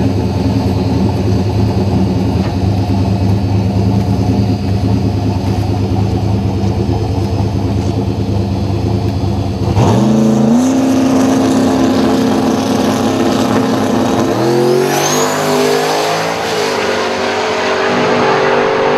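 Garrett 88mm-turbocharged Fox-body Mustang drag car's engine running at the starting line, then brought up sharply in revs about ten seconds in and held there. About four seconds later it launches and pulls hard, its pitch climbing through the gears with a rising turbo whistle.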